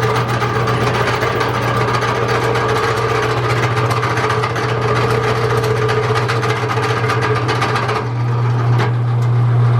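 Drill press running and drilling a hole through metal: a steady motor hum with a fine grinding chatter from the cut, which stops about eight seconds in while the motor keeps humming.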